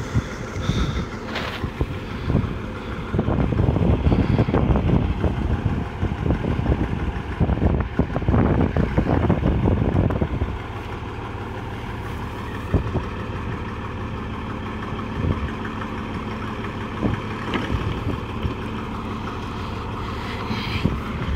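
The drilling rig's engine running, with heavy clattering and knocking for roughly the first ten seconds, then settling to a steadier, smoother running sound with an occasional click.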